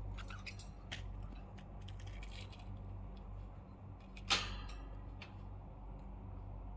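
Pet budgerigars making faint scattered chirps and small clicks, with one louder, sharper sound about four seconds in, over a steady low hum.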